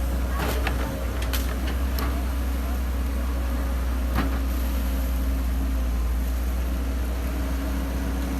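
Excavator's diesel engine running steadily under a low, even drone. A few sharp knocks come in the first two seconds, and one more about four seconds in.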